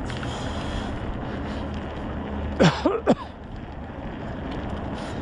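Wind rumbling on the microphone of a moving bicycle. About halfway through come three quick, loud sounds, each falling sharply in pitch.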